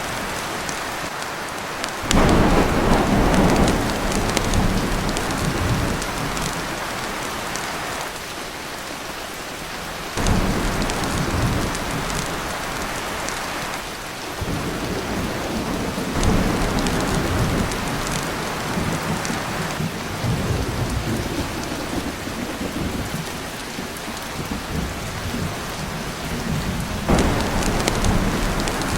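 Heavy rain falling steadily on a tin roof, with thunder rumbling several times: about two seconds in, around ten seconds, around fourteen to sixteen seconds, and again near the end.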